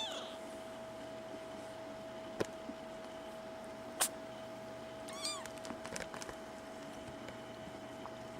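Kitten meowing: the end of one high mew right at the start and one short, high, arching mew about five seconds in. Two sharp clicks fall between them, over a steady faint hum.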